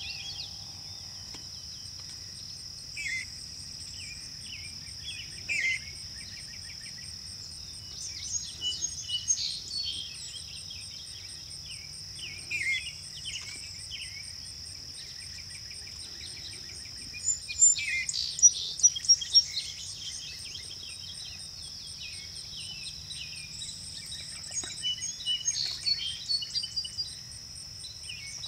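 Small birds chirping in short bursts, with a quick run of louder chirps about two-thirds of the way through, over a steady high-pitched insect drone.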